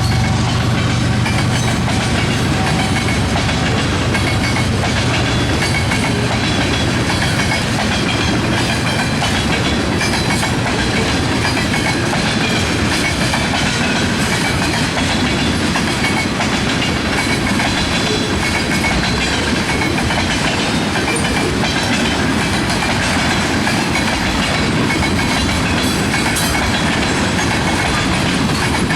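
Freight cars of a Canadian National manifest train rolling past close by, with a steady, loud noise of steel wheels on rail.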